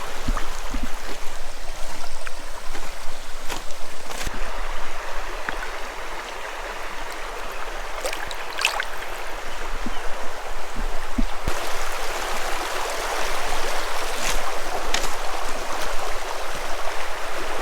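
Creek water rushing steadily over rocks, with a few short clicks through it.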